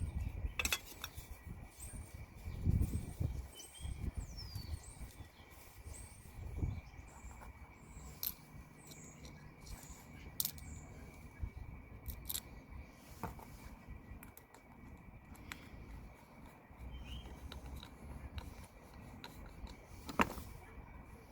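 Scattered clicks, taps and a few dull knocks as a new fuel filter is handled and fitted into its holder in the engine bay of a BMW 320d.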